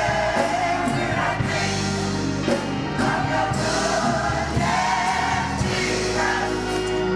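Choir singing a gospel song with instrumental accompaniment, a steady bass underneath.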